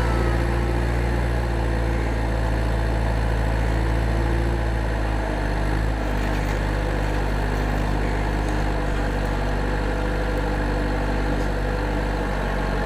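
An engine running steadily with a low hum, its tone shifting slightly about five seconds in.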